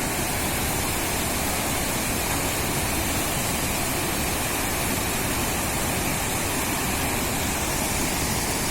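Rushing water, a steady even noise without breaks.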